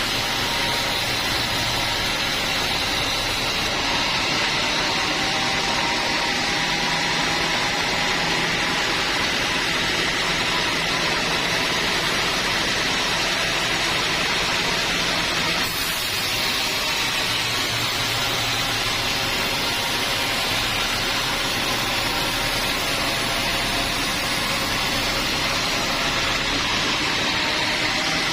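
Band sawmill running steadily while sawing teak wood: a continuous loud mechanical noise with a high whine, dipping briefly about halfway through.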